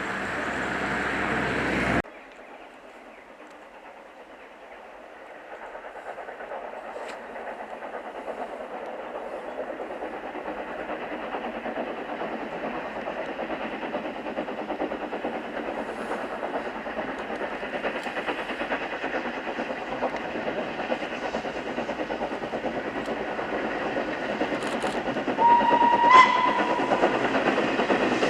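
A steam train approaching, its running noise growing steadily louder, with one short steam whistle blast near the end. An earlier, louder stretch of train noise cuts off abruptly about two seconds in.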